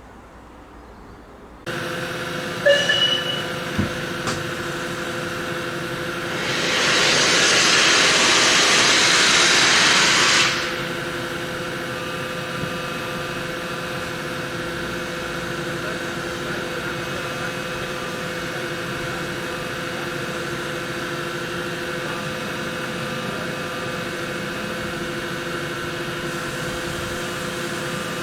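Steam locomotive standing with a steady hum, broken by a loud hiss of escaping steam that lasts about four seconds, a few seconds in.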